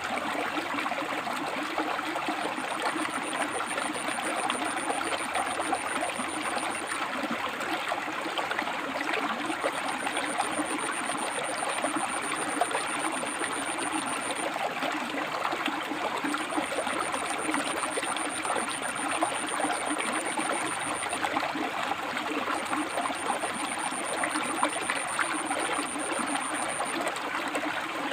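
River water flowing steadily over and between rocks, a continuous rushing and babbling.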